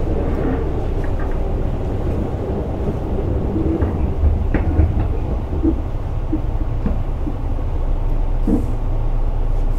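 Tobu 8000 series electric commuter train running between stations, heard inside the car: a steady low rumble of wheels on rail and traction equipment, with a few faint clicks.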